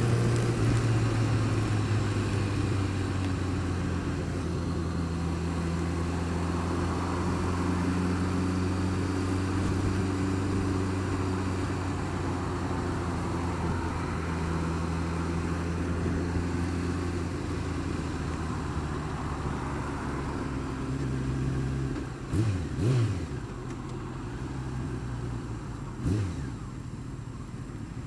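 Honda Fireblade's inline-four engine idling steadily, blipped three times near the end: two quick revs in a row, then one more a few seconds later. The idle carries the unexplained noise that the owner says is worse when the engine is cold.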